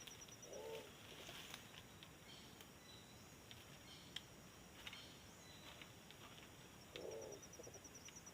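Faint bird calls: a short low call about half a second in and again about seven seconds in, each near a rapid high trill.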